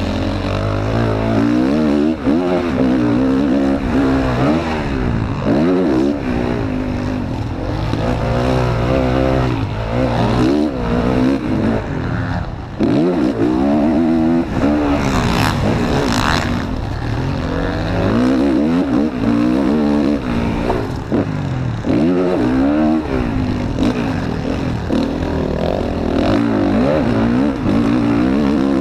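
Motocross bike engine heard from an onboard camera, revving up and falling back over and over as the rider accelerates, shifts and brakes around the track. A short rushing noise comes about halfway through.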